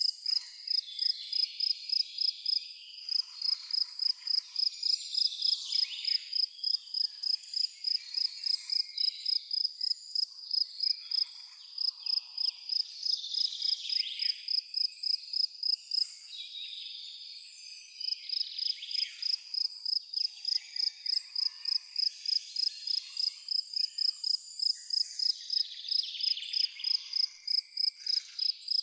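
A cricket chirping in a steady rhythm, one high note about three times a second, with a pause of a couple of seconds a little past halfway. Under it runs a faint background of other insects.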